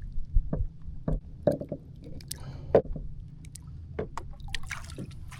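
Water splashing and dripping around a small fishing boat, with scattered knocks and clicks. A louder rushing splash starts near the end.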